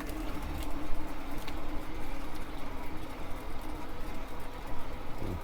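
Electric bike on the move: a steady whine from its motor over a low rumble of wind and tyres, with a short falling tone near the end.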